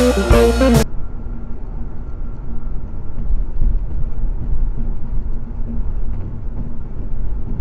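Rock guitar music cut off abruptly about a second in, followed by the steady low rumble of a car driving: engine and road noise.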